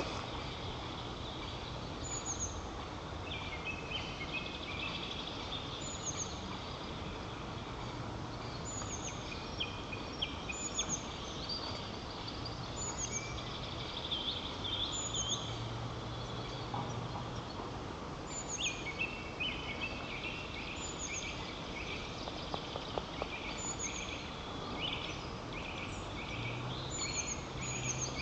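Small songbirds singing in the forest canopy over a steady background hiss. One bird repeats a short high falling note about every one and a half seconds, while others add chirps and trills that grow busier in the second half. A faint low hum comes and goes.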